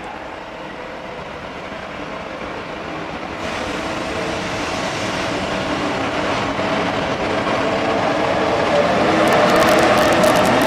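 Electric locomotive hauling a passenger train, approaching along the platform and passing close by, growing steadily louder. Near the end a fast run of wheel clicks over the rail joints comes in as the locomotive goes past.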